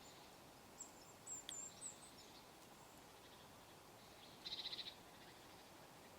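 Quiet forest ambience with small birds calling: several thin, very high chirps in the first couple of seconds, then a short, rapid trill about four and a half seconds in, the loudest sound.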